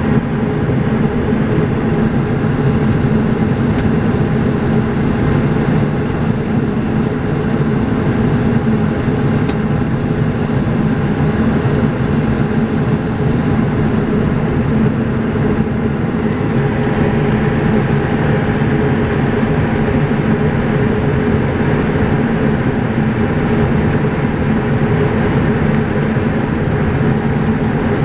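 Steady drone of a Saab 340B's twin turboprop engines and propellers heard inside the cabin, a constant hum with an even hiss. The hiss grows a little heavier about halfway through.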